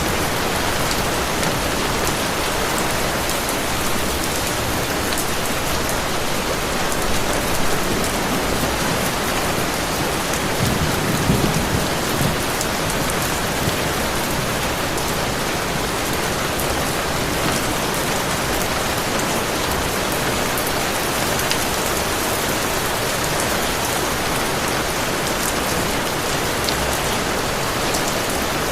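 Heavy rain falling steadily on a surface, a dense even hiss with scattered drop ticks, and a brief low rumble about eleven seconds in.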